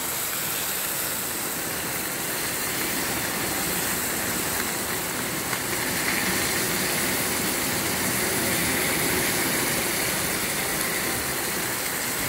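Wahoo medallions and onions sizzling steadily in hot oil in a large steel disc pan.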